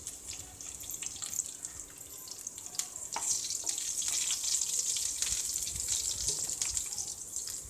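Chopped onion sizzling in hot oil with mustard seeds and fenugreek as the tempering for sambar: a steady hiss with scattered crackles, stirred with a wooden spatula about midway.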